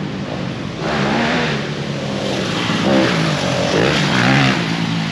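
Dirt bikes on a motocross track, their engines revving up and down as the riders go over the jumps, the pitch rising and falling several times.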